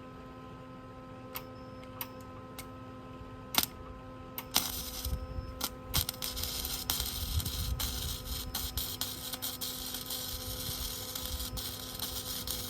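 A few separate clicks and taps over a steady hum, then, from about four and a half seconds in, a power tool working steel: a continuous crackling hiss with scattered pops.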